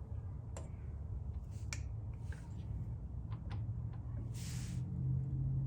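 A few light, sharp clicks and a short rustle from metal engine parts being handled during a top-end teardown, over a steady low hum.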